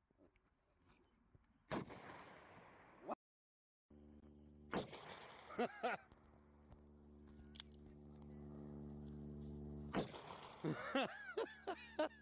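Gunshots: one sharp shot trailing off, then after a short gap a steady low hum with more shots, and a quick cluster of sharp cracks and clinks near the end.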